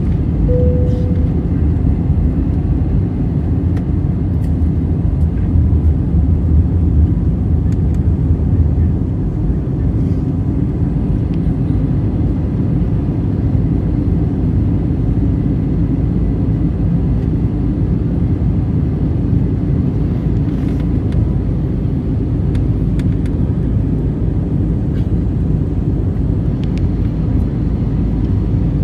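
Steady low rumble of an Airbus A320's jet engines and airflow as heard inside the cabin, swelling slightly a few seconds in. A short tone sounds about half a second in.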